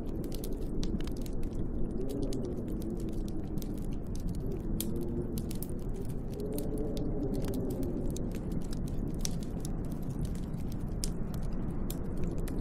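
Wood fire crackling with frequent small sharp pops, over a steady low wind whose howl wavers up and down in pitch.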